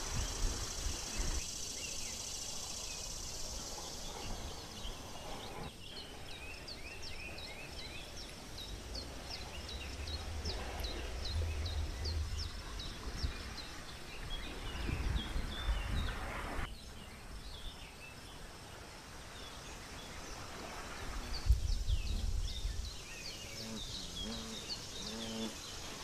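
Small birds chirping in quick runs of short, high notes, over a low rumble of wind on the microphone.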